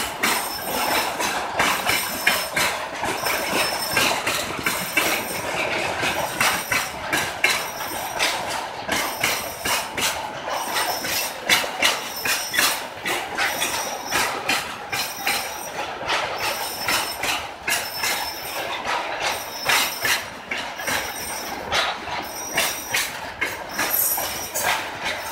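Freight train of hopper cars and gondolas rolling past: wheels clack over the rail joints in a rapid, uneven run of knocks over the steady running noise of the wagons. Thin high squealing tones from the wheels come and go.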